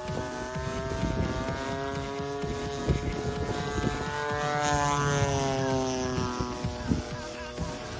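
Radio-controlled model airplane's nitro glow engine running in flight, its pitch rising and then falling again as it passes.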